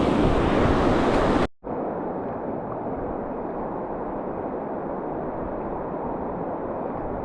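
Steady rush of river water with wind on the microphone. It cuts out briefly about a second and a half in, then carries on more muffled.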